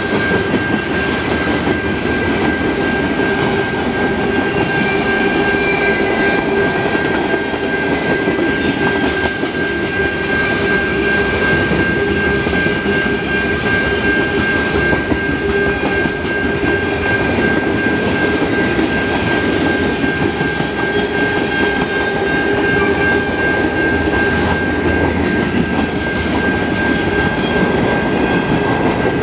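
Freight train cars, mostly tank cars, rolling past at speed: steel wheels rumbling and clacking over the rails, with a steady high-pitched ringing tone running under it throughout.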